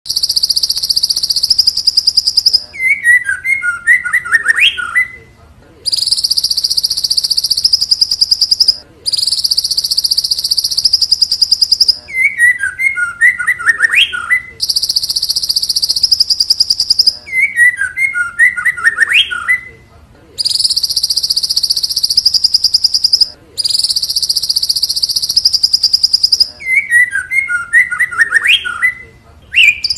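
White-rumped shama (long-tailed murai batu) singing hard: long, very high buzzing trills of about three seconds alternate with shorter, lower whistled phrases that rise at the end, in a steady repeating cycle.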